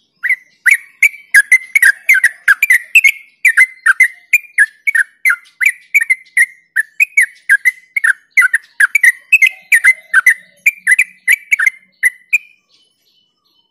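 Yellow-vented bulbul singing a long, fast run of short, sharp whistled notes, about three a second, each slurring downward. The run stops about a second before the end.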